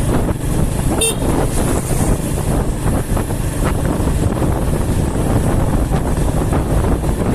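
Steady rumble of a vehicle driving along a road, with wind buffeting the microphone. A brief high pitched chirp sounds about a second in.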